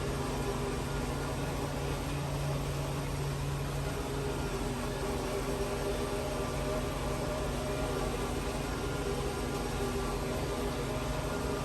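Tractor and pull-type forage chopper running steadily, a constant engine drone with a steady hum over it.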